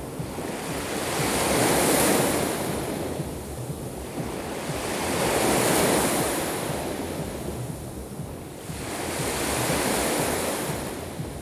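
Black Sea waves breaking on the shore, a rushing wash that swells and fades about every four seconds, three times.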